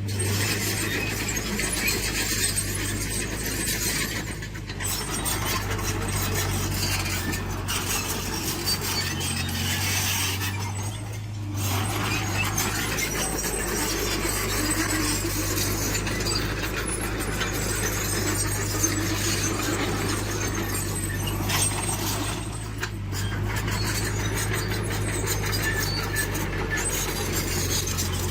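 A tracked earthmoving machine's diesel engine running steadily under load, with continuous metallic clanking and squealing from its working parts.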